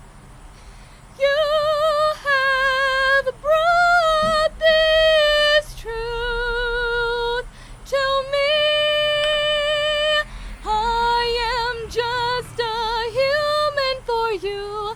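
A woman's voice singing a slow melody of long held notes with vibrato, with no clear words, starting about a second in.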